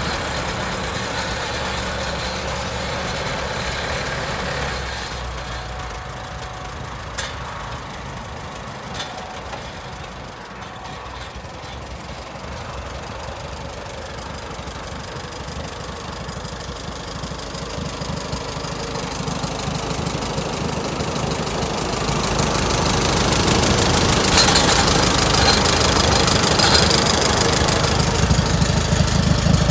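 Allis-Chalmers WD-45 tractor engine running steadily. It drops in level about five seconds in and grows louder again from about two-thirds of the way through, loudest near the end.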